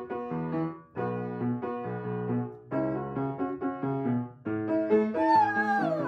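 Piano playing a run of chords; about five seconds in a dog starts howling along, one long call sliding down in pitch over the music.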